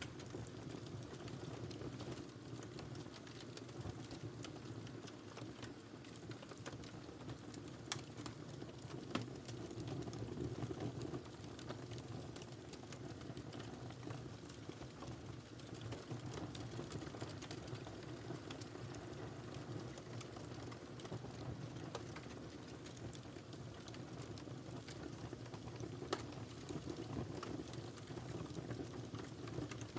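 Wood fire crackling in a fireplace: a steady low rush of flames with frequent small crackles and a few sharper pops, the loudest about eight and nine seconds in.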